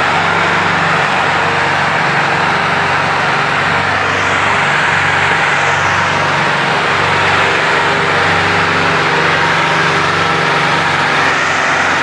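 Massey Ferguson 385 tractors' diesel engines running steadily under load, with a low, even engine note.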